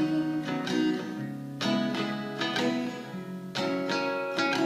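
Acoustic guitar played alone between sung lines: plucked and strummed chords ringing out, a new stroke about every second.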